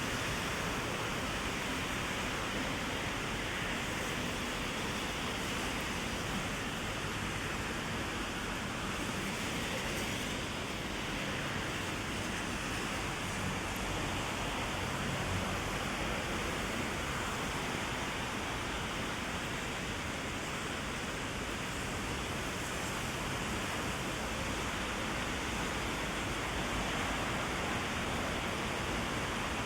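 Heavy rain falling steadily on an umbrella, a constant even hiss with no breaks.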